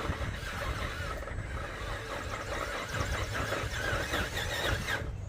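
Vanquish Phoenix VS4-10 RC rock crawler's electric motor and geared drivetrain whining, the pitch wavering up and down with the throttle as it works up a steep incline, over a steady low hum. The sound cuts off suddenly near the end.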